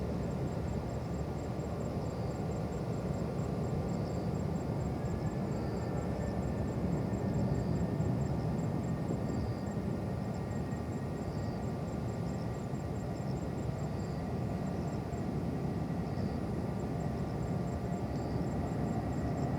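Distant jet airliner engines: a steady low rumble with a faint thin whine, swelling slightly about eight seconds in.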